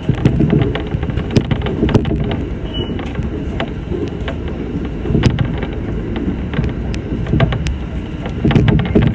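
Shinano Railway SR1 series electric train running along the line: a steady low rumble from inside the train, with frequent sharp clicks from the wheels on the track.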